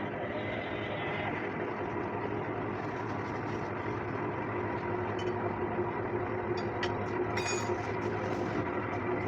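Workshop machinery running steadily with a droning hum, and a few light metallic clicks in the second half.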